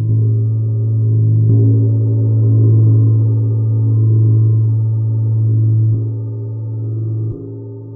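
A gong ringing with a low, sustained tone that swells and fades in a slow wavering pulse. It is re-struck softly a few times, and the deepest note cuts off suddenly near the end.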